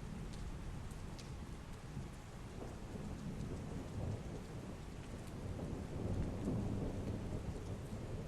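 Heavy rain falling steadily, with scattered close drips, under a low rolling thunder rumble that builds through the second half.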